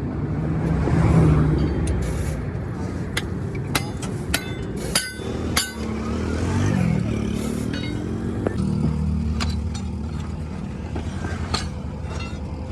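Vehicle engines running steadily, with a vehicle passing about seven seconds in, its engine note sliding in pitch. Sharp metallic clinks ring out here and there, clustered around four to six seconds in, like tools striking metal.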